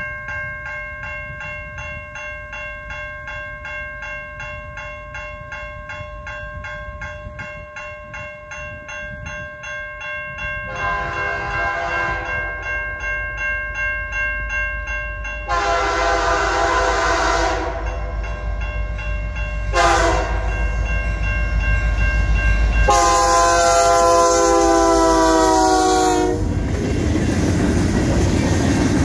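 A railroad crossing bell rings steadily, pulsing evenly, as a Canadian National SD75I diesel locomotive approaches. About eleven seconds in the locomotive's air horn sounds the grade-crossing signal: two long blasts, a short one and a final long one that dips slightly in pitch. Then the rumble and clatter of the freight train's wheels passing the crossing.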